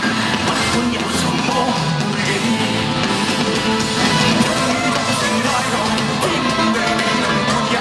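Live rock-pop concert music: band playing with drums and guitar under a singing voice, in a large hall.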